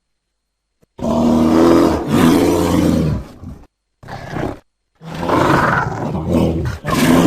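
American black bear vocalizing: after a second of silence, a long pitched, rough call, then a short one, then a longer run of calls from about two-thirds of the way through.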